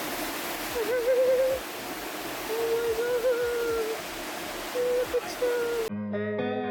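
Steady roar of the Rhine Falls' rushing water, with a wavering, hoot-like tone that comes and goes three times over it. Guitar music cuts in abruptly near the end.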